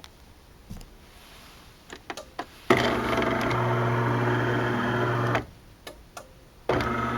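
DeLonghi ESAM3300 super-automatic espresso machine: a few light clicks, then its motor runs with a steady whirring hum. It stops for about a second, clicks twice more, and starts running again near the end.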